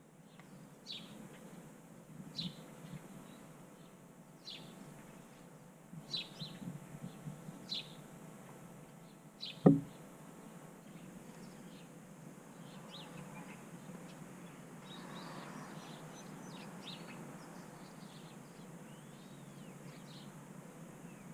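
Small backyard birds chirping: short falling chirps every second or two, then fainter scattered twittering in the second half. A single sharp knock about ten seconds in is the loudest sound.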